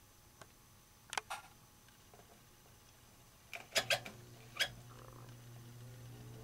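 A few sharp clicks, then a vintage box fan's Westinghouse motor starts humming and its metal blades spin up, a faint whirring tone rising slowly in pitch and getting louder.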